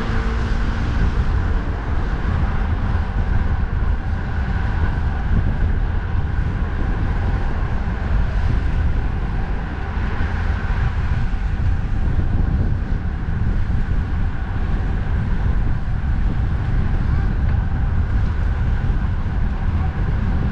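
Strong wind rumbling on the microphone over steady road-traffic noise, with no distinct events standing out.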